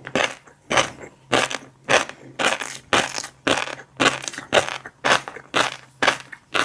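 Chewing a mouthful of fish roe, the eggs crunching and popping between the teeth in a steady rhythm of about two chews a second.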